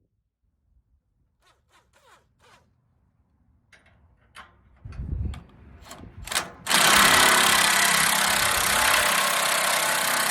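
A few light taps and knocks, then an engine starts about seven seconds in and runs steadily and loudly.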